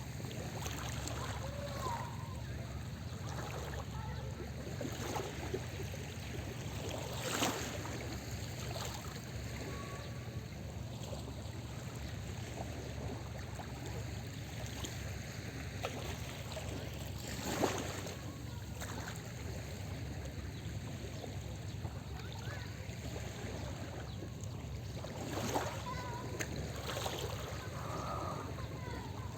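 Small sea waves lapping and washing on a beach, with a steady low rumble underneath and three louder splashes as bigger waves break.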